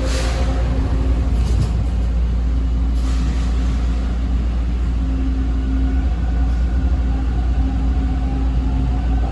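TTC T1 subway train heard from inside the car while running: a steady low rumble of wheels on rail under a faint electric motor whine, with a few brief clicks. The whine rises slightly in pitch in the second half.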